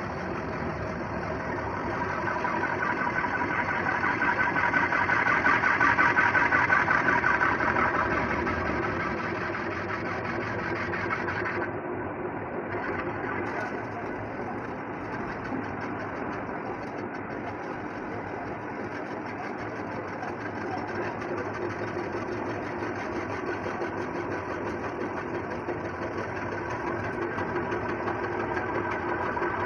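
Workshop machinery running steadily with a fast, even mechanical rhythm; it grows louder for a few seconds early on and then settles back.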